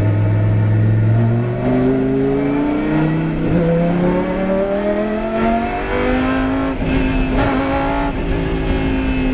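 Lamborghini Huracán GT race car's 5.2-litre V10 accelerating hard, its pitch climbing through the gears with two quick upshifts, each marked by a sudden drop in pitch. It then holds a fairly steady high note.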